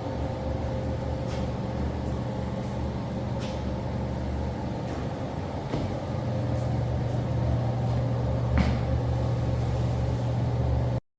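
A motor running with a steady low hum. It grows louder about six seconds in, with a few faint clicks over it, and cuts off abruptly near the end.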